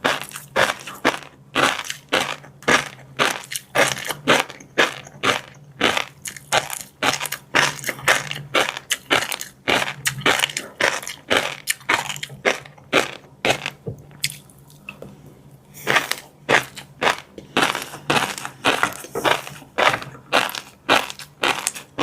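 Close-miked chewing of crunchy fish roe and crispy seafood: a quick, even run of crunches, about two to three a second, with a short pause about two-thirds of the way through. A faint low hum runs underneath.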